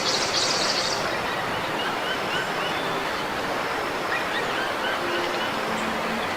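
Steady rushing background noise with a series of short, repeated rising chirps from a bird. A high buzz stops about a second in.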